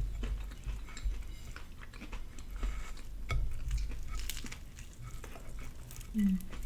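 Close-up eating sounds: chewing, small wet clicks and smacks as a fried chicken and glazed donut sandwich is eaten, with a short hum near the end.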